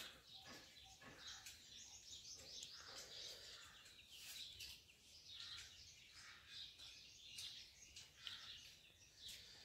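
Near silence, with faint, scattered chirps of birds.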